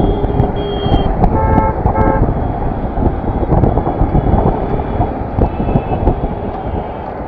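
Dense wind and road rumble of a motorcycle riding in traffic, with a vehicle horn tooting twice in quick succession about one and a half seconds in.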